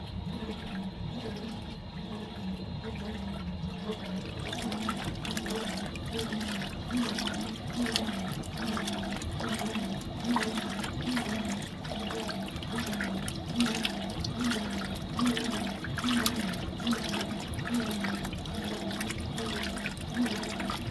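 Fisher & Paykel MW059 top-loading washing machine agitating a load: the motor drives the agitator back and forth in a regular rhythm while water sloshes and splashes around the clothes, the splashing growing busier a few seconds in.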